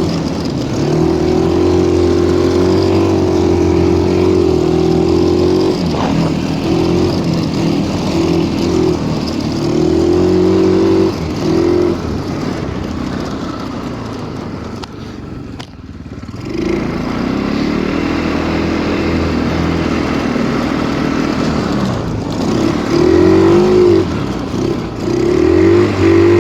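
Stels Kapitan Long snowmobile engine running under throttle, its pitch rising and falling. About fifteen seconds in it drops back briefly, almost to idle, then picks up again.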